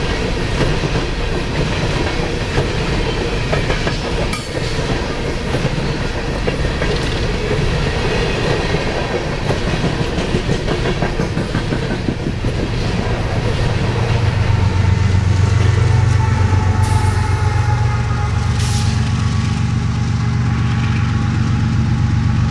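Loaded coal hopper cars rolling past, with steel wheels clattering over the rail joints. From about 13 seconds in, a steady low diesel drone grows louder and holds: the GE ES44AC locomotive pushing as the end-of-train distributed-power unit passes.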